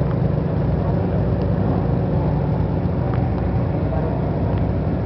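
Ferrari engine idling steadily, a deep even hum with no revving.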